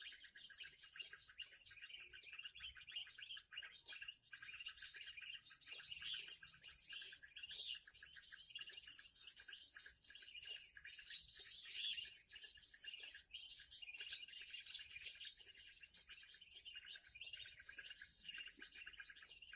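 Continuous, dense chirping and twittering of small birds.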